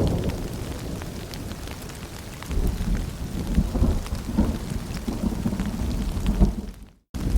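Steady rain with scattered drops, over a low rolling rumble of thunder that fades during the first couple of seconds and swells again about two and a half seconds in. Near the end the sound cuts out completely for a moment.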